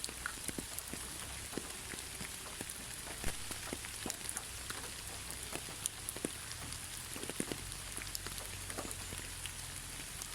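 Steady rain with many separate raindrops pattering and ticking close by, scattered irregularly over a soft hiss.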